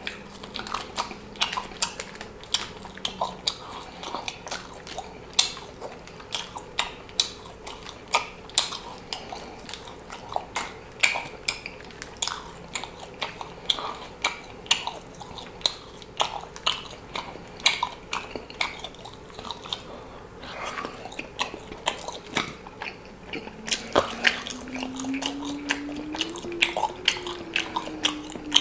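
A person chewing and biting food close to the microphone, with frequent sharp mouth clicks. Near the end a low steady tone rises and then falls.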